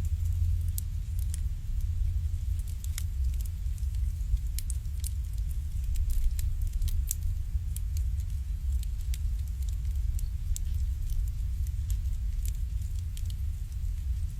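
Wood fire burning in an irori, a Japanese sunken hearth: irregular sharp crackles and pops over a steady low rumble.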